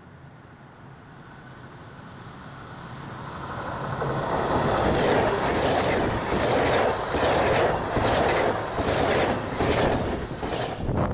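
Allegro high-speed electric train (an Alstom Pendolino-type trainset) approaching and rushing past at about 120 km/h. The sound swells over the first few seconds into a loud rush of air and running gear, with a repeated clatter of wheels over rail joints.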